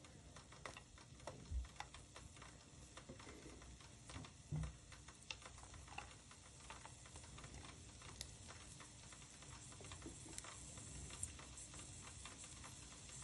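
Sliced red onion frying in oil in a pan: a faint, irregular sizzle of many small crackles and pops. There are two soft low thumps in the first few seconds.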